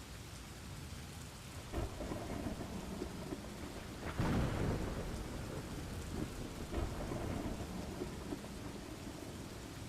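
Rain falling steadily with rolling thunder, which swells loudest about four seconds in, with lesser rumbles near two and seven seconds in.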